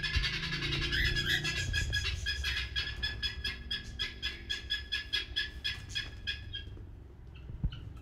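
A bird calling a rapid, steady series of short high notes, about five a second, which stops about seven seconds in; a few scattered chirps follow.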